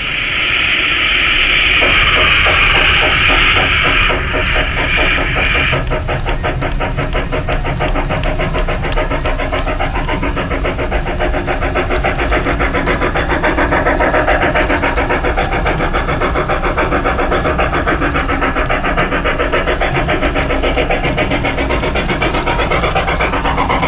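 LGB Mogul G-scale model steam locomotive running, its sound unit giving a long high-pitched blast for about the first six seconds, then a steady rapid chuffing that carries on over the low rumble of the wheels on the track.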